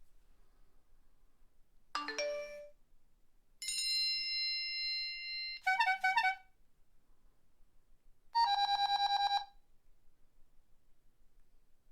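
A series of electronic phone alert tones. About two seconds in comes a short chime of a few quick notes. Then a held tone runs for about two seconds and breaks into a few rapid pulsed beeps. Near the end comes a fast trilling ring of about a second.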